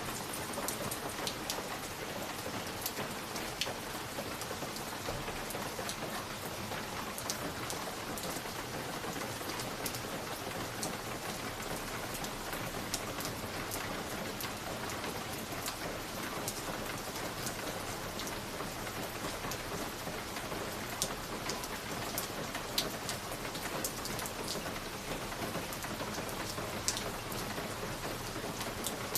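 Wood fire crackling in a fireplace: a steady hiss with scattered sharp pops and snaps.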